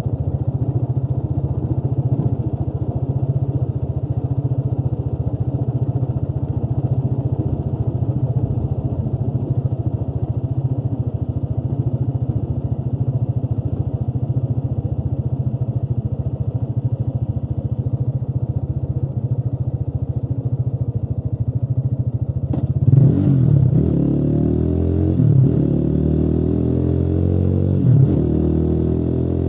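Motorcycle engine running steadily while riding. About three-quarters of the way through there is a sharp click, and then the engine note rises and falls several times as it revs.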